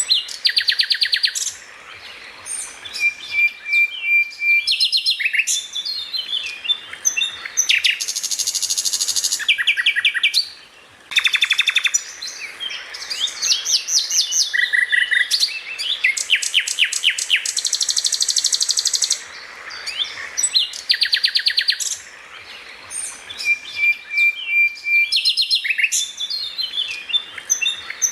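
A songbird singing a fast, varied song of chirps, rapid trills and short steady whistles. The same run of phrases comes round again about twenty seconds later, as in a looped training recording.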